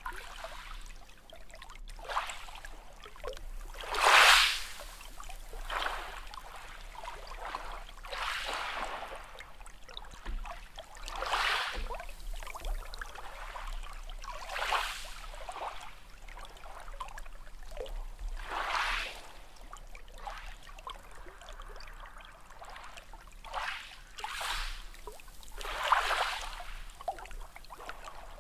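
Small sea waves lapping and splashing, one short rush of water every second or two, the biggest splash about four seconds in.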